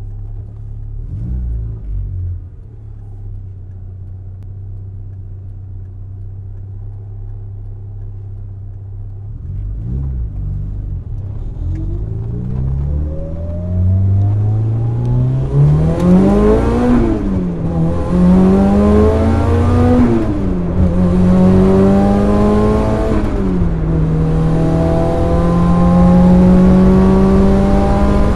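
Mitsubishi Lancer Evolution VIII's turbocharged 2.0-litre four-cylinder heard from inside the cabin: running low with two short blips of the throttle, then accelerating hard, the engine note rising and dropping back at each of three upshifts. A rushing hiss rides over the engine at high revs and dips at every shift.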